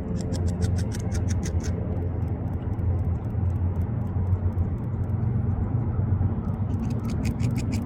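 A beaver gnawing a branch: rapid, evenly spaced scraping bites of its incisors on wood, about six a second, in a run at the start and again near the end. A steady low rumble runs underneath.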